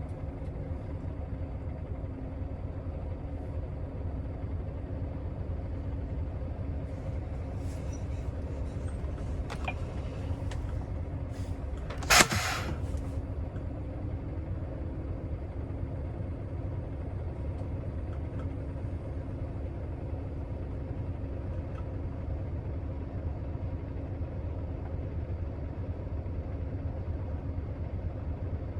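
Scania R650's V8 diesel running steadily under way, a low drone. About twelve seconds in comes one short, loud hiss of air.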